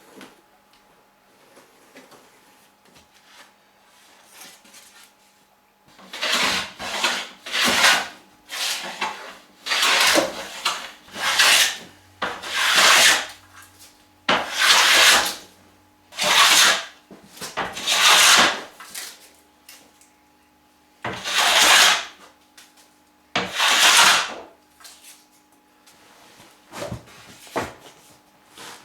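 Hand plane taking repeated strokes along a wooden trim board, each stroke a short shaving hiss, about one a second, with a few fainter strokes near the end.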